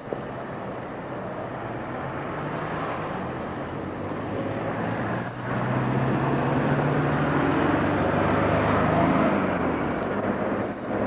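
A motor vehicle passing by: the engine hum grows louder about halfway through, then drops in pitch as it goes past, over steady background noise.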